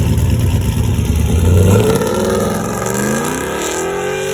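Truck engine accelerating hard in a takeoff: a loud low rumble, then a rising whine as the revs climb, levelling off near the end.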